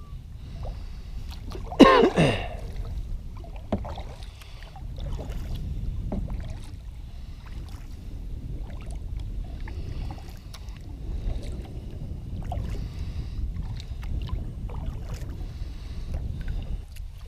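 Kayak paddling on a creek: paddle strokes with small drips and splashes of water, over a low wind rumble on the microphone. About two seconds in, a loud, brief pitched sound sweeps sharply downward in pitch.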